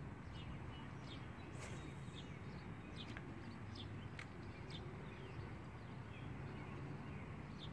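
Birds chirping in short, scattered high notes over a steady low background hum.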